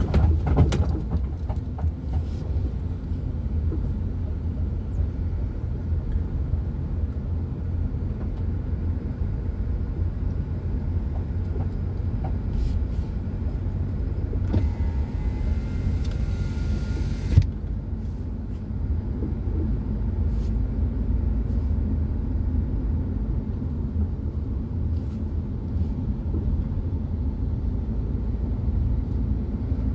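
Car cabin noise while driving slowly: a steady low rumble of engine and tyres. About halfway through, a higher hiss comes in for about three seconds and ends with a sharp click.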